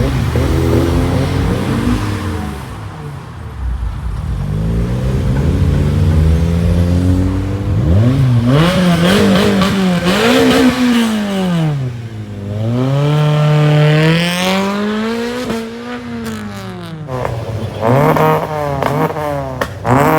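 Tuned car engines revving, the pitch climbing and falling again several times. Near the end there is a short run of sharp exhaust pops.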